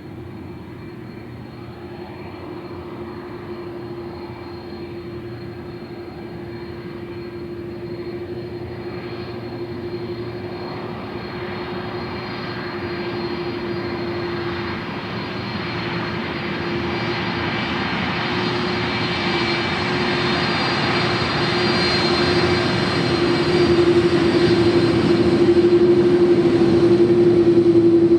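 Aircraft engines growing steadily louder as an aircraft draws closer, with a steady low hum and a high whine above it.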